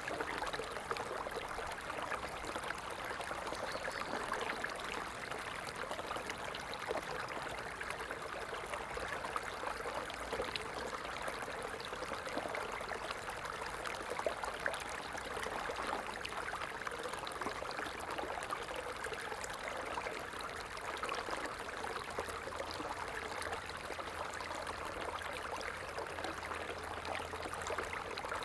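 Stream water babbling and trickling steadily, a dense even rush flecked with small splashes.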